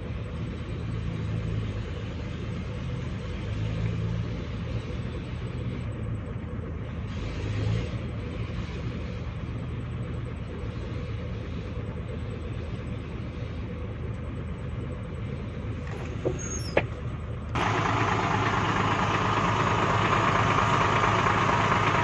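Diesel engine running steadily at low revs. It becomes suddenly louder about three quarters of the way through.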